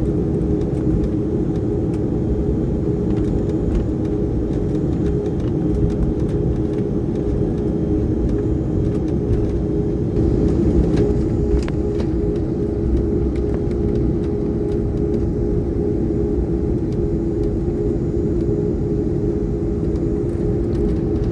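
Steady cabin noise inside an Embraer jet airliner on the ground: a constant low rumble with a steady hum from the engines and air system.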